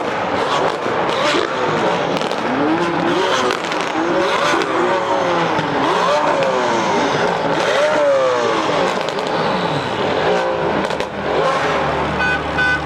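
High-revving race car engines accelerating hard, their notes repeatedly climbing and dropping as they shift up through the gears, with several notes overlapping and exhaust crackles. Near the end a steady engine note holds.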